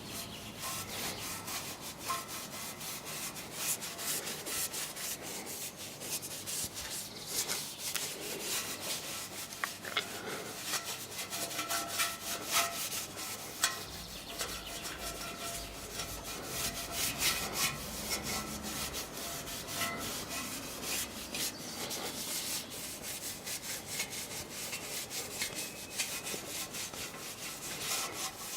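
A stainless steel car exhaust being rubbed and polished: a continuous run of quick, scratchy rubbing strokes.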